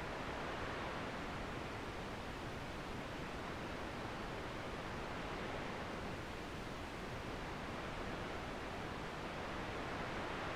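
Steady rushing outdoor noise with no distinct events, swelling slightly in level a couple of times.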